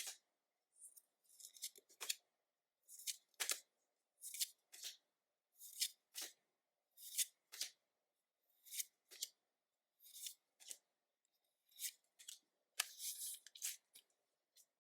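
Pokémon trading cards being slid across one another one at a time as a pack is flipped through, a short dry swish every second or so, often two close together.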